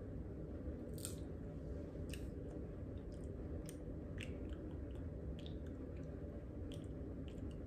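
A person chewing a mouthful of stale popcorn, with faint scattered crunches and clicks about once a second.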